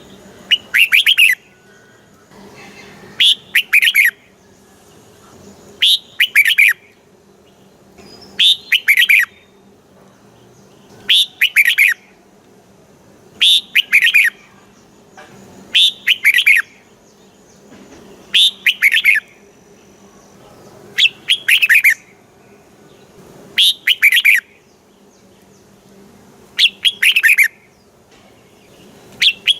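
Red-whiskered bulbul singing, the same short doubled song phrase repeated about every two and a half seconds.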